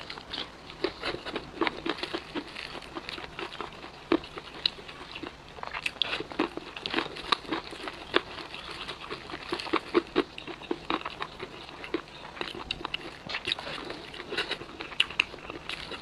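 A person biting and chewing crispy fried chicken: irregular crunching throughout, with several crunches a second and louder, sharper bites every so often.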